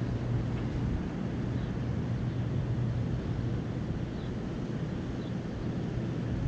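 Steady low rumble of outdoor background noise with a constant low hum, and a few faint, short, high bird chirps.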